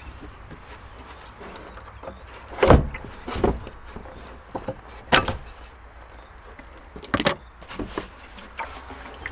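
Four sharp knocks and clunks, spaced a second or two apart, among a few lighter clicks over a low steady hum, as from hand work on parts of the car.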